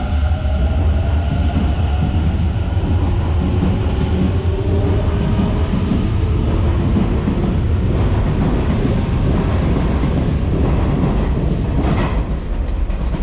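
Hanshin 1000 series electric train moving along a station platform: a steady, loud rumble of wheels on rails, with the whine of its motors.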